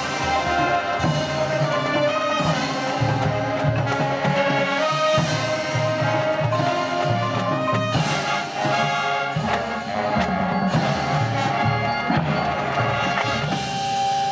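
Marching band playing: brass and percussion with sustained chords over a steady drum pulse, ending on a held chord that starts to fade.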